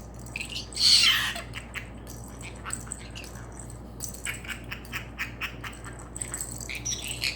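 A small pet bird gives one harsh squawk about a second in. A quick run of small taps and clicks follows as it pecks and strikes in its mock fight.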